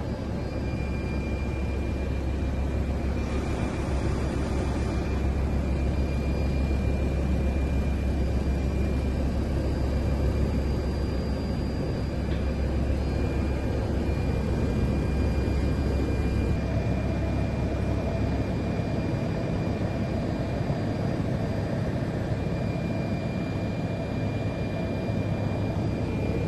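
Steady low mechanical rumble with thin, steady high whines over it, engine-like drone without pauses.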